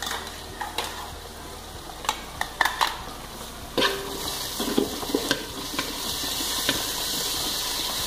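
A spoon knocking and scraping against a pot several times, then, a little under four seconds in, a steady sizzle as ginger-garlic paste fries with the sautéed onions.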